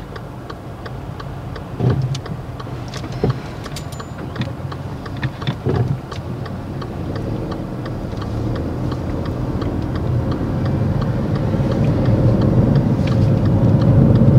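Small car's engine heard from inside the cabin, running at the lights after a stall, then pulling away with the engine note slowly rising and the rumble growing louder. A steady light ticking runs throughout, with a few louder knocks in the first six seconds.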